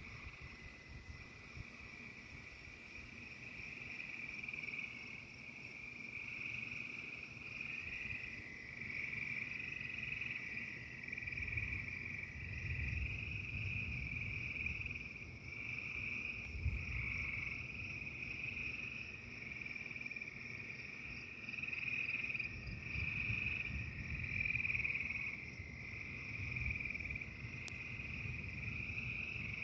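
A chorus of frogs trilling and calling without a break, a dense pulsing high-pitched din. Beneath it, a low rumble swells and fades several times.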